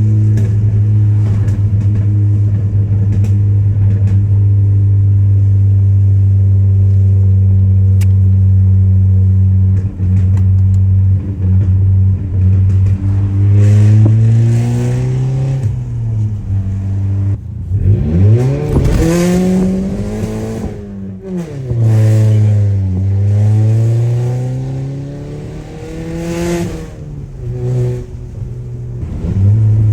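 Straight-piped Audi A3 exhaust, its muffler and resonator deleted, while driving. It holds a steady, loud drone for about the first half, then the revs climb and drop back several times before settling into the steady drone again near the end.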